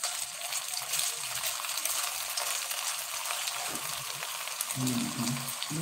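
Slices of homemade pork luncheon meat frying in hot oil in a nonstick pan: a steady sizzle with many fine crackles.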